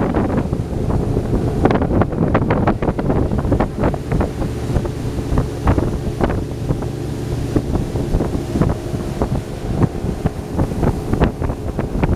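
Speedboat running at speed: heavy wind buffeting on the microphone over the steady drone of the outboard motor, with frequent short slaps of the hull on the water.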